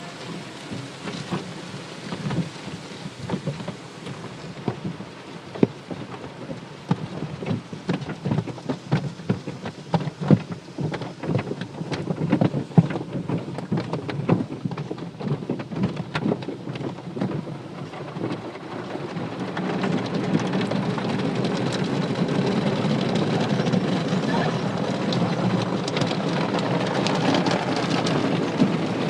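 Car wash water spray hitting a car's body: many irregular spatters at first, then a steadier, louder spray from about two-thirds of the way through.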